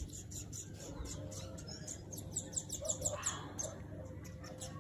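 Birds chirping in a rapid run of short, high chirps, several a second, with a louder stretch of falling chirps in the middle, over a steady low background rumble.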